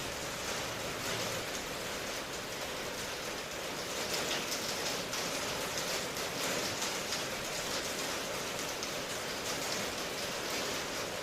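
Steady rain: a dense, even hiss of falling drops, swelling slightly about four seconds in.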